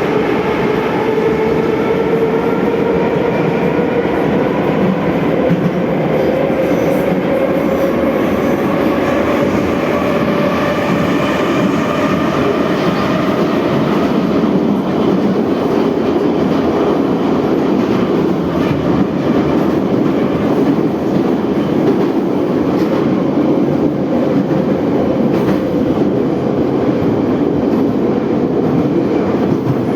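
Moscow metro 81-717/714 train running between stations, its DK-117 traction motors whining in a pitch that rises slowly for about the first fourteen seconds as the train gathers speed, then holds steady over loud wheel and rail noise with some clickety-clack.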